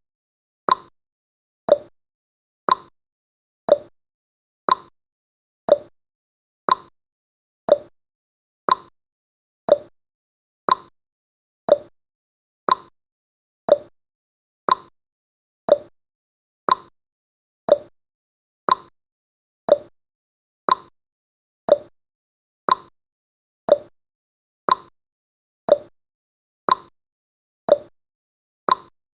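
Clock-ticking sound effect of a countdown timer: one sharp tick a second, alternating higher and lower in pitch like a tick-tock.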